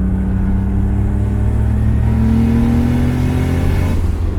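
Turbocharged 1JZ inline-six in a Lexus LS400 pulling hard under acceleration, heard from inside the car. The engine note climbs steadily in pitch, then drops away near the end as the throttle comes off for a gear change.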